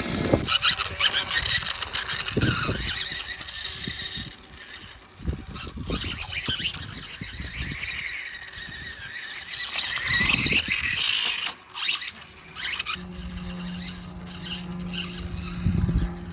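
Brushless electric motor of a 1:4-scale RC dirt bike whining in uneven bursts as it speeds up and slows down. A steady low hum joins near the end.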